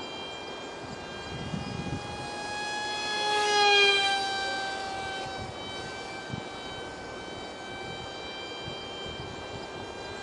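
Small 8mm brushed electric motor and direct-drive propeller of an ultra micro RC foam jet whining in flight. The whine swells and rises in pitch as the plane passes close a little under four seconds in, then drops in pitch and fades back to a steady distant drone.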